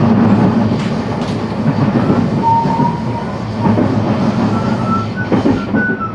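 Interior running noise of a JR West 223 series electric train's motor car: a steady rumble of wheels on rail with a few sharp joint knocks, and the whine of its VVVF inverter showing as short tones, several stepping in the second half.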